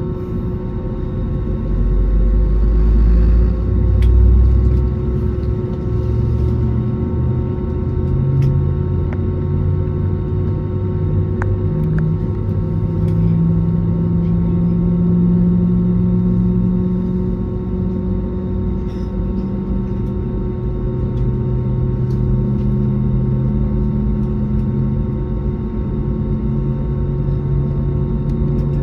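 Airbus A320neo cabin during taxi with both engines running: a steady engine drone with low tones that climb in pitch in steps through the middle, then level off.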